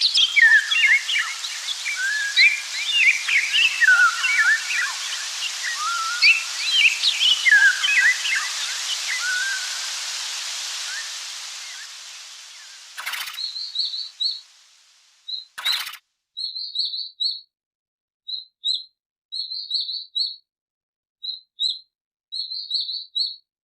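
A dense chorus of many birds chirping and whistling over a steady hiss, fading out after about twelve seconds. Then, after two short clicks, a single bird repeats short high chirps in quick clusters of two to four, with brief pauses between.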